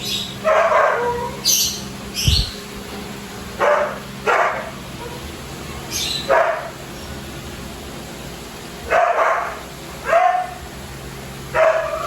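Dog barking repeatedly, about seven single barks at irregular gaps of one to three seconds, along with a few higher, shorter sharp calls.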